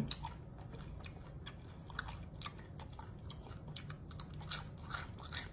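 A person chewing and crunching a deep-fried egg roll, a string of irregular, crisp crunches.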